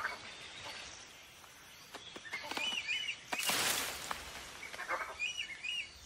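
Rainforest ambience with a bird repeating a short pair of high call notes, twice. A brief rustling burst of noise about halfway through is the loudest sound.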